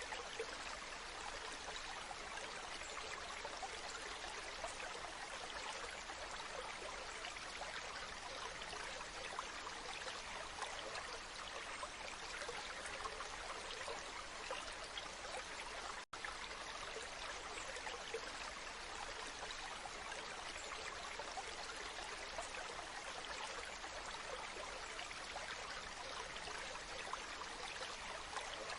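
Waterfall: a steady, even rush of falling water. It cuts out for an instant once, about sixteen seconds in.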